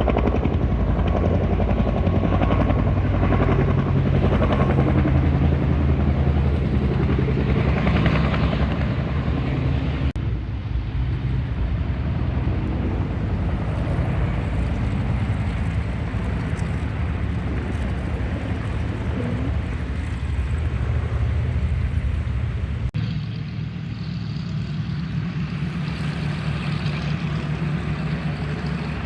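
Aircraft engine running, a steady low drone with a fast, even pulsing beat. The sound shifts abruptly about ten seconds in and again about two-thirds of the way through.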